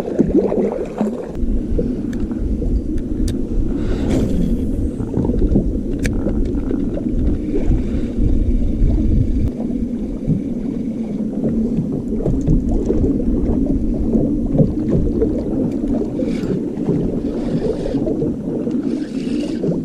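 Electric trolling motor on a kayak, running with a steady hum over a low rumble.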